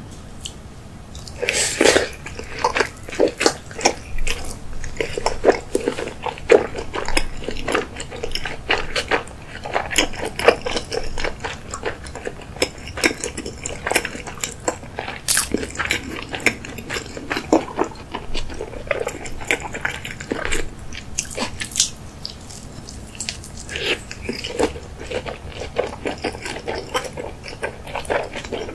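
Close-up chewing of a big mouthful of raw salmon nigiri, salmon over rice. It is a steady run of small mouth clicks and smacks.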